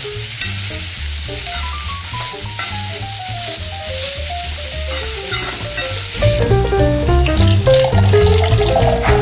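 Onions and chickpeas sizzling as they fry in a pan, under background music with a stepping melody and a bass line; the music gets fuller and louder about six seconds in.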